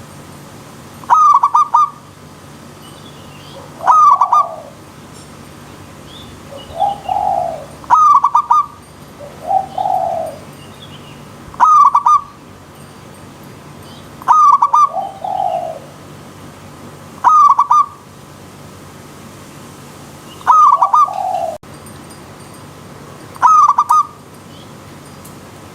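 Zebra dove (perkutut) cooing: a short burst of rapid pulsed notes about every three seconds, with softer, lower rolling coos from a second bird in some of the gaps.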